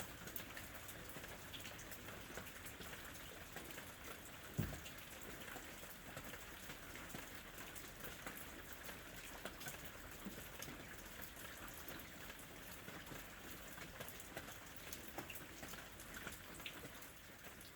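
Steady ambient rain, a soft hiss dotted with the ticks of single drops hitting a surface, with one short low thump about four and a half seconds in.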